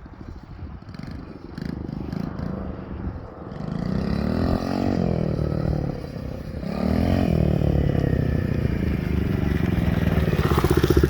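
XPRO 110cc pit bike's small single-cylinder four-stroke engine revving. It is fainter at first, then climbs and drops in pitch twice in a few seconds, then runs steadier and louder near the end.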